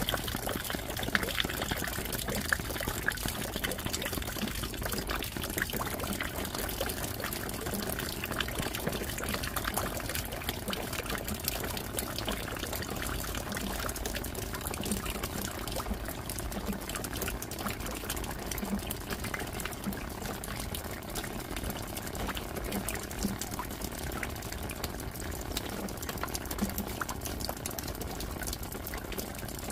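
Steady rain falling: an even hiss of water with many separate drops ticking throughout and an occasional heavier drip.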